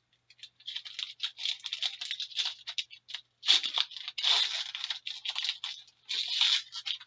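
Foil wrapper of an Upper Deck Artifacts hockey card pack being slit open with a knife and torn, crinkling in irregular bursts with short pauses between them.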